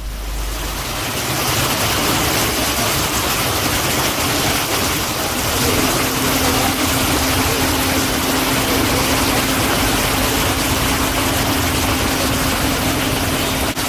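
Heavy rain falling on a city street in traffic, a steady hiss, with vehicle engines running. A steady engine hum joins about halfway through.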